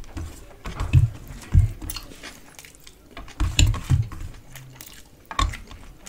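A person chewing a mouthful of rice and duck curry close to the microphone, with a few irregular chewing and smacking sounds. Fingers mix rice in a steel bowl alongside.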